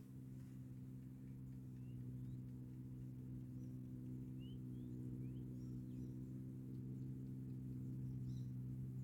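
A steady low mechanical hum, like a motor running, with short rising bird chirps scattered over it.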